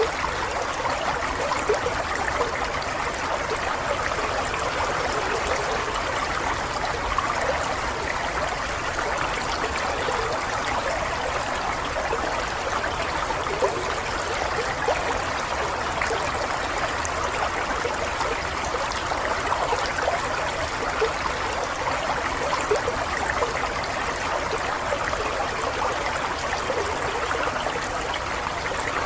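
Running water flowing steadily with a continuous babble.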